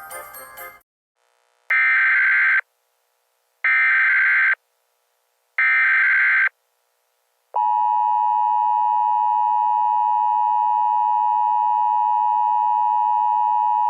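Emergency Alert System broadcast signal: three short bursts of the SAME digital header tones, each about a second long and about two seconds apart, then the steady EAS attention tone starts about halfway through and holds. A bit of music cuts off in the first second.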